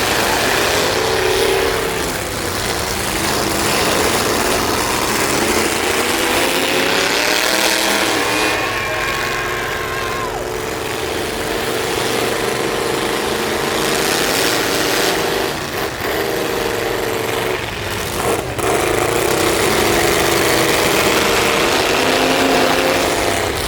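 Demolition derby truck engines running hard and revving, rising and falling in pitch, with two sharp knocks in the second half.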